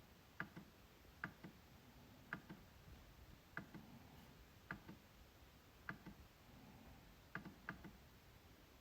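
MacBook trackpad being clicked: soft, sharp clicks in quick pairs, now and then three, repeating about once a second.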